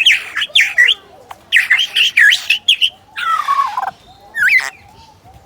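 Lyrebird singing a loud, varied song of sweeping, warbling whistled phrases, with a harsher rasping phrase partway through. The song breaks off near the end.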